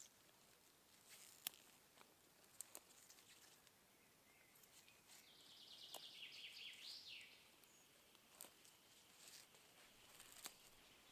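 Faint forest ambience: a bird gives one rapid trill of repeated high notes ending in a quick downward sweep, about halfway through, with scattered small clicks and snaps.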